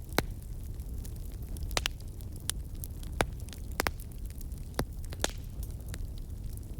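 Campfire crackling: irregular sharp pops and snaps from the burning wood, over a steady low rumble.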